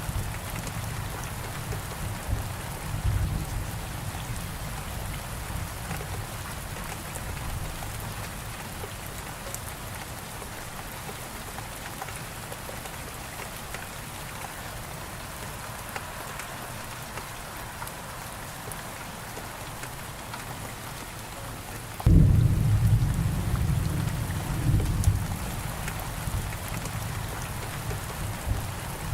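Steady rain falling, with thunder: a low rumble in the first few seconds that fades away, then a sudden loud thunderclap about 22 seconds in that keeps rumbling on.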